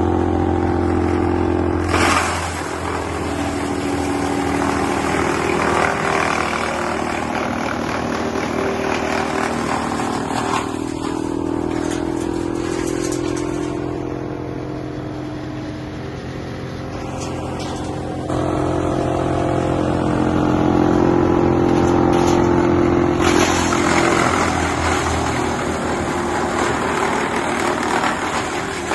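Engine-driven wood chipper running with a steady hum. Broad rough noise comes and goes over it, rising about two seconds in, easing in the middle, and rising again in the latter part.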